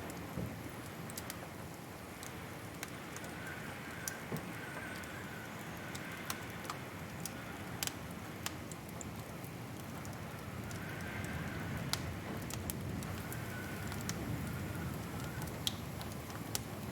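Wood fire crackling in a fireplace: a steady low rustling hiss with irregular sharp pops and snaps, a few every second or two. A faint wavering whistle comes and goes in the background.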